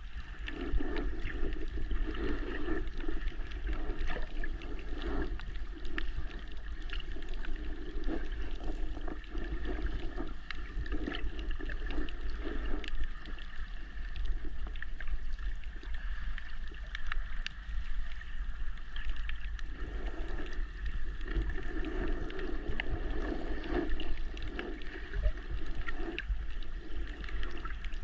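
Water sloshing and gurgling, recorded underwater through a GoPro's waterproof housing. A constant deep rumble runs underneath, and the water sound swells and fades irregularly.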